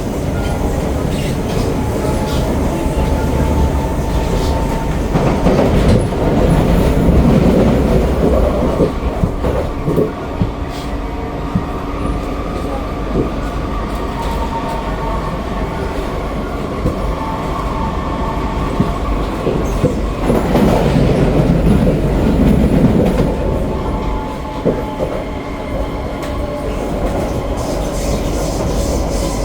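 SMRT C151B metro train running along the line, heard from inside the carriage: a steady rumble of wheels on rail with a faint steady whine. It swells louder twice.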